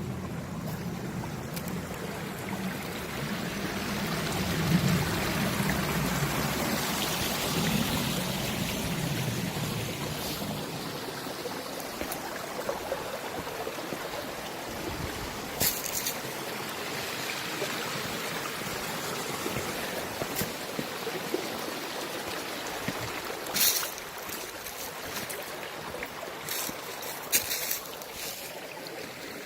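Mountain valley stream running steadily over rocks. A few sharp clicks are heard in the second half.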